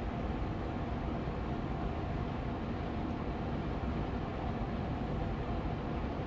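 Austin Air Allergy Machine air purifier fan running steadily on medium speed: an even rush of air, heaviest in the low end, with a faint steady hum tone in it.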